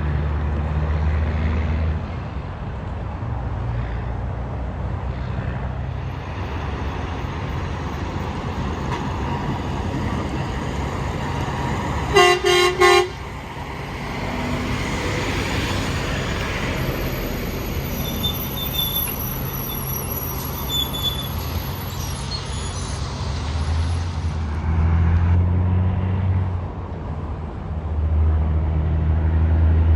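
Interstate traffic with passing trucks' engines running, and about halfway through, two short blasts of a vehicle horn.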